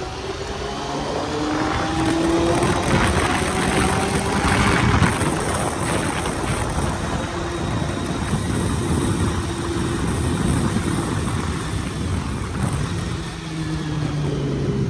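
Honda CBR400RR's inline-four engine accelerating, its pitch rising over the first couple of seconds, then running on at speed under heavy wind noise on the microphone.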